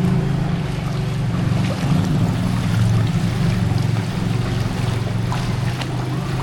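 A vehicle engine running steadily, over a haze of street noise with a few faint clicks.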